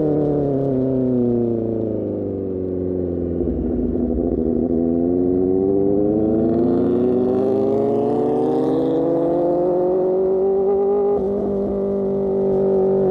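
Superbike engine through an Austin Racing GP1R exhaust, riding: the revs fall for about four seconds as it slows, then climb steadily for about seven seconds under throttle, with a brief break near the end before the engine note holds steady.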